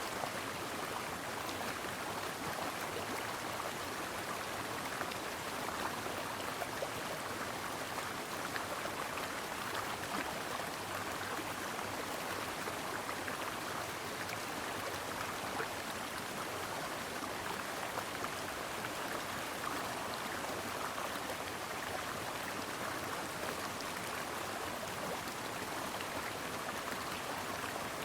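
Brook water flowing and babbling over stones, steady and even throughout.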